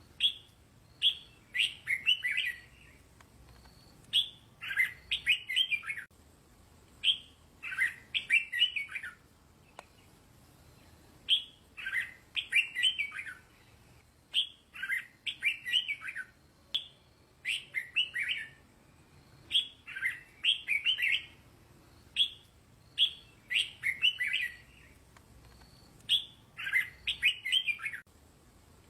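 Red-whiskered bulbul singing: short, bright, warbled phrases of a few quick notes, repeated every two to three seconds with brief pauses between.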